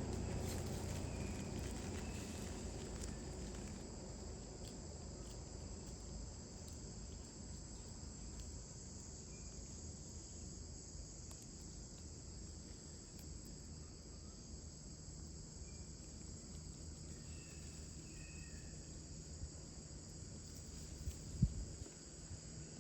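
Steady high-pitched insect chorus, crickets or similar, droning without a break, with a low rumble fading out over the first few seconds and a few light knocks near the end.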